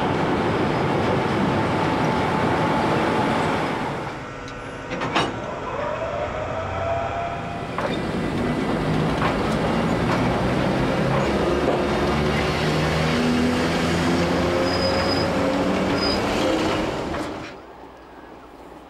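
Rhaetian Railway electric locomotive and train running through a station with a steady rumble. About five seconds in there is a sharp click, then several whining tones from the locomotive's motors that rise slowly in pitch as it gets under way. Near the end the sound falls away to a faint hiss.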